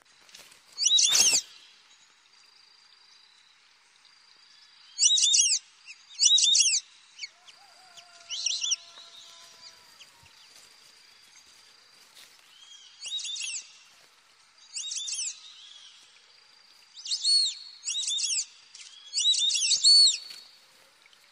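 A bird's high chirping calls: short phrases of under a second, repeated about ten times in ones and pairs with pauses between. A faint steady high tone sits beneath them.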